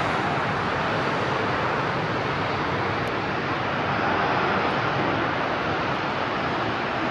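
Jet airliner engines giving a steady rushing noise, even in level, with no sharp events.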